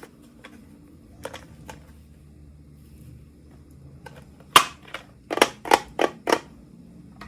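Sharp clicks and snaps of plastic packaging being handled and opened. There are a few light ticks, then one loud snap about halfway through, followed quickly by a run of five clicks.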